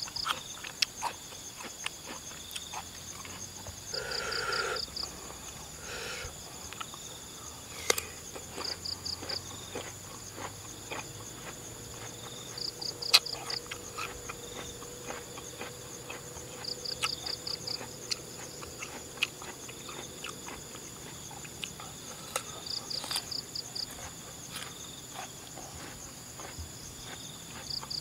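Crisp crunching and smacking as raw jicama is chewed, in irregular clusters of sharp clicks. Insects shrill steadily in the background, and a short pulsed chirp of about five beats comes back every few seconds.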